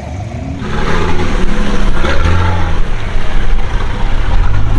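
4x4 off-road vehicle's engine revving, its pitch rising and falling, growing louder about a second in.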